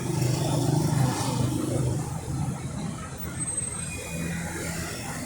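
Street traffic: a motor vehicle's engine running close by, a low hum that is loudest in the first second or so and then eases off.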